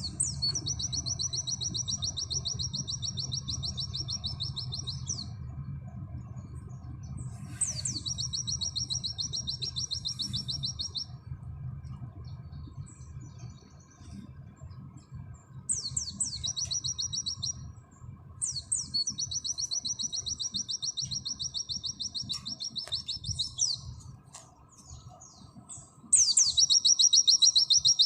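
White-eye (pleci) singing its rapid, high-pitched trilled 'nembak' song in five long phrases. Each phrase opens with a quick downward sweep and runs for two to five seconds, with short pauses between; the last phrase, near the end, is the loudest.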